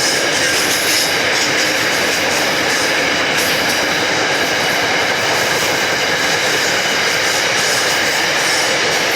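A train rolling past close by: a steady, loud rush of wheels on rail that neither builds nor fades.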